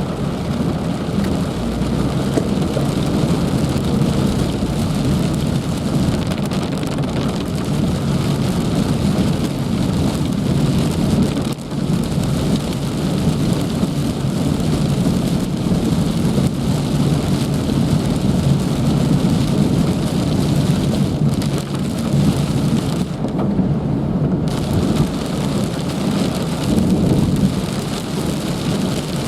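Heavy rain pouring down in a dense, steady rush.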